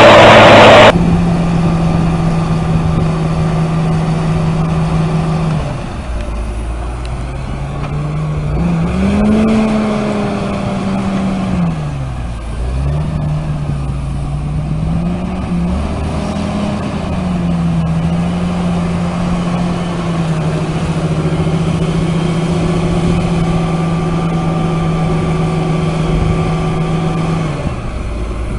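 A loud, noisy stretch cuts off about a second in. Then a vehicle engine runs at a steady pitch, drops, revs up and down through the middle, settles to a steady pitch again and drops near the end.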